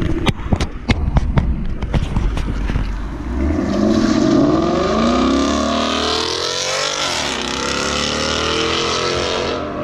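Ford Mustang V8 exhaust: a quick string of sharp cracks over the first few seconds, then the engine note climbing hard in pitch as the car accelerates, the exhaust loud through to the end.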